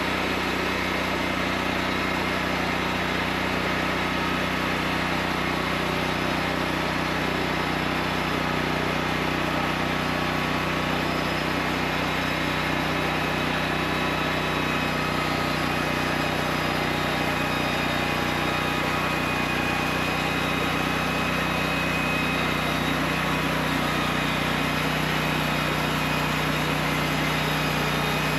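Engine of a homemade sawmill running steadily at an even speed, with no change in pitch or load.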